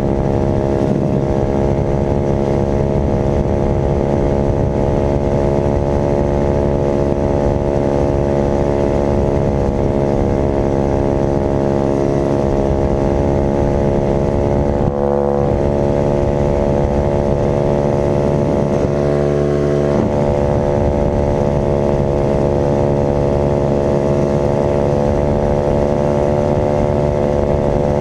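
Dirt bike engine running steadily at a constant high engine speed, with a brief dip about halfway through.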